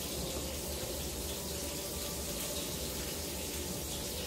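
Chicken breast pieces frying in oil, sizzling in a steady, even hiss.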